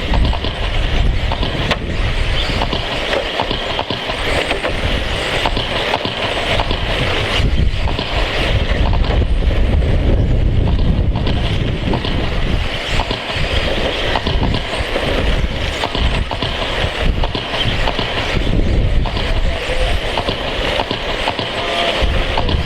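1/10-scale electric RC stadium trucks with 13.5-turn brushless motors racing around a dirt oval: a steady mix of motor whine and tyre noise from the pack, with low wind rumble on the microphone.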